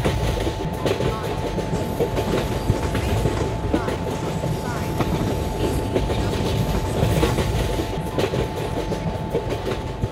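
Passenger train rolling past on the rails, its wheels clattering steadily over rail joints, with a steady whine alongside.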